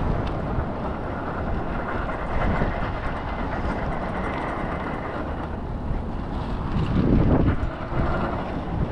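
Steady wind rumbling on the microphone, with a stronger gust about seven seconds in.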